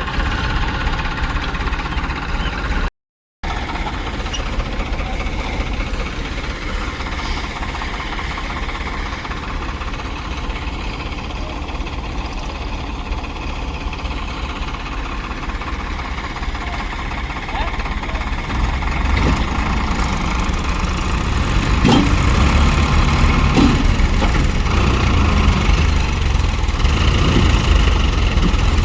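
Tractor engine running steadily, growing louder over the last third, with a brief total cut-out of the sound about three seconds in.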